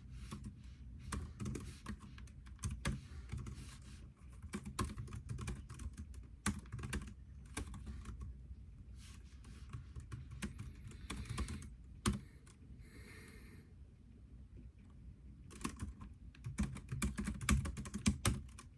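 Computer keyboard typing in bursts of quick keystrokes. About two-thirds of the way through the typing pauses for a few seconds, with a brief soft hiss, then starts again in a fast burst near the end.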